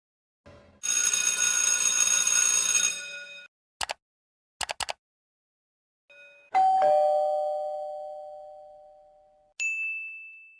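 A string of separate sound effects. A bright, shimmering chime plays for about two and a half seconds, followed by a few quick clicks. Then comes a two-note ding-dong doorbell chime, high then low, fading over about three seconds, and a short high ding near the end.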